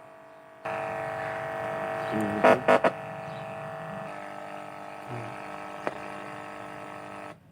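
LED TV speakers putting out a steady electrical buzz with a hum of many tones, starting a little under a second in and cutting out briefly near the end.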